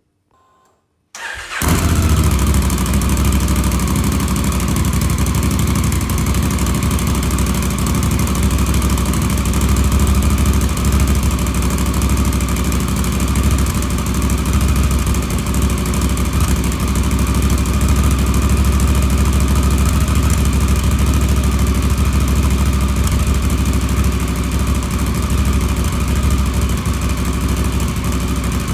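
Honda CRF1000L Africa Twin's parallel-twin engine, breathing through a Blackwidow full exhaust system, starting about a second in and then idling steadily.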